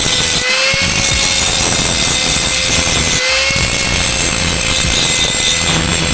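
Angle grinder running on steel, a steady whine over a gritty hiss whose pitch sags briefly each time the disc bites and then picks back up.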